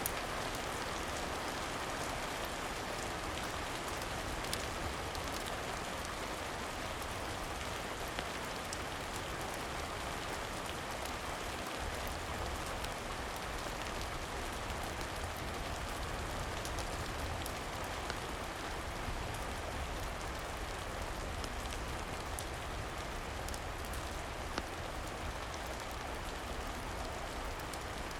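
Steady rain falling on a surface, an even hiss with a few faint sharp clicks scattered through it.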